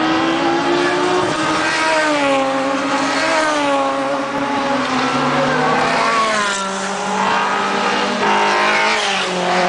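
Sports racing cars passing at speed, several engines at once, their pitch rising and falling as they rev and shift gears through the corner.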